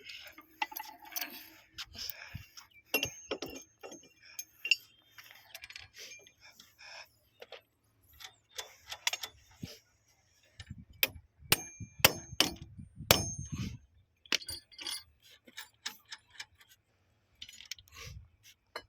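Metal tools and fittings clinking and knocking in irregular bursts, with three louder metallic strikes that ring briefly about eleven to thirteen seconds in.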